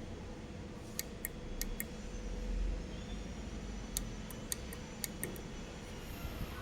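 Sharp, irregular clicks, about ten in two short clusters, over a steady machine hum with a constant low tone.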